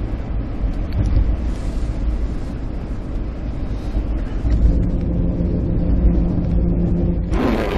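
Car road noise heard from inside the cabin while driving: a steady low rumble with an engine hum joining in the second half. A brief loud swish comes near the end.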